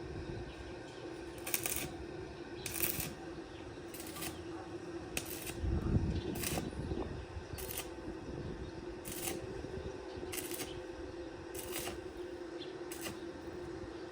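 A series of sharp clicks, roughly one every second at uneven spacing, over a steady hum, with a dull thump about six seconds in.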